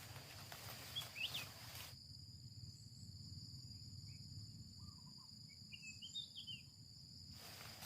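Faint outdoor ambience: insects keeping up a steady high-pitched drone, with a few short bird chirps about a second in and again around six seconds in, over a low rumble.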